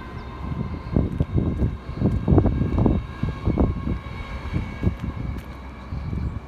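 Wind buffeting the microphone outdoors: irregular low rumbling gusts that swell and drop every fraction of a second.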